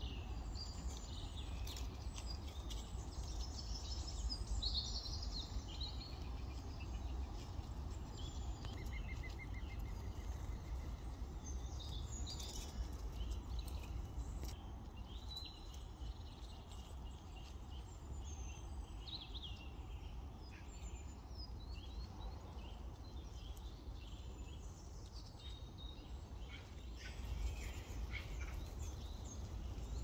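Small songbirds chirping and calling throughout, with a short rapid trill about nine seconds in, over a low steady rumble.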